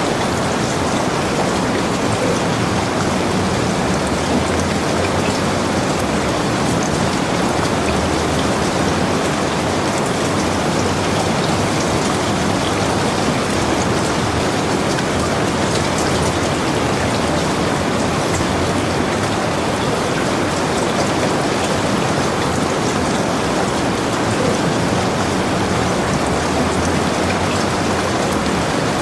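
Heavy rain falling steadily, a dense even hiss with fine drop ticks throughout.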